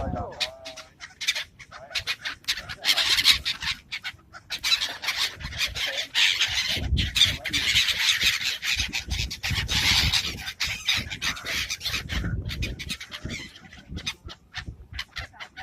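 A flock of seagulls calling, many short sharp cries overlapping, thickest in the middle of the stretch, with low rumbles now and then.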